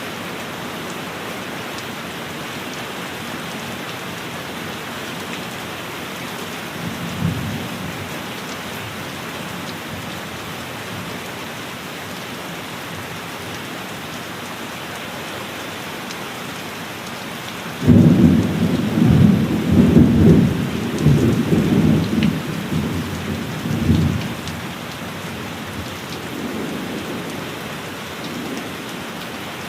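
Steady heavy rain throughout, with a short low rumble of thunder about a quarter of the way in. Past the halfway point a sudden, loud thunderclap breaks in and rolls on in several surges for about six seconds, then dies to faint distant rumbles.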